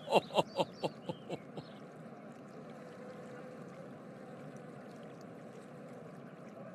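A man laughing in a quick run of falling "ha" sounds that trails off about a second and a half in, followed by a steady, even background hiss.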